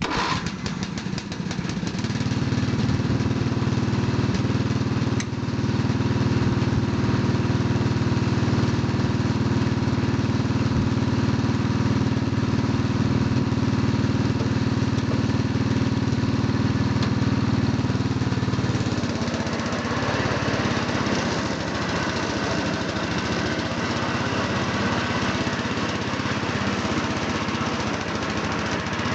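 Roper lawn tractor's 12 horsepower Briggs and Stratton petrol engine running steadily while mowing with its twin-rotor cutting deck. The note sets in over the first couple of seconds and shifts about two-thirds of the way through, with its lower tones dropping back.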